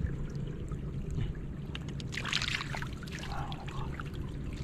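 Water splashing, with a brief burst about two seconds in and a smaller one a second later, over a steady low rumble.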